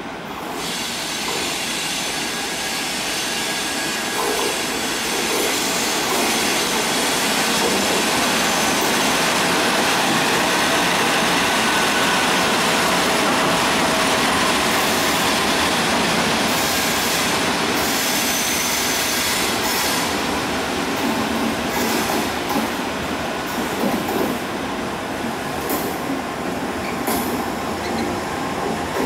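FS Class E656 electric locomotive and Intercity Notte coaches rolling slowly past at close range as the train arrives at the platform: a loud, steady rush of running gear that builds over the first several seconds, with faint wheel squeal and sharp clicks of wheels over rail joints in the second half.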